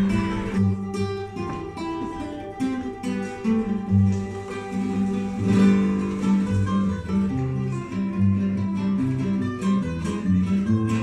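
Background music: acoustic guitar played with plucked notes over a steady bass line.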